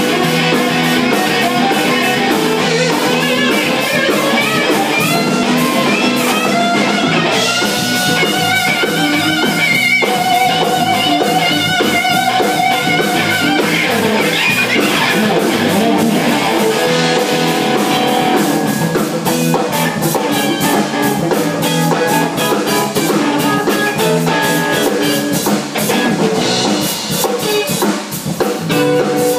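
Live band jamming: guitar playing over a drum kit, with a stretch of long held notes in the middle. The level dips briefly near the end.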